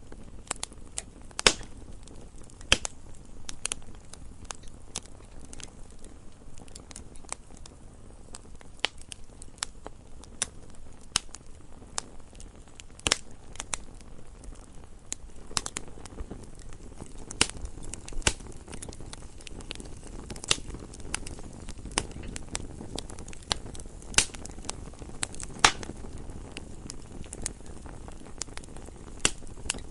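Campfire crackling: irregular sharp pops and snaps of burning wood over a low steady rumble of the flames.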